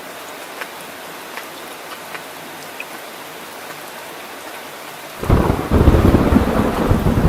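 Steady rain falling, with a few separate drops ticking. About five seconds in, a loud, deep rumble of thunder starts abruptly over the rain.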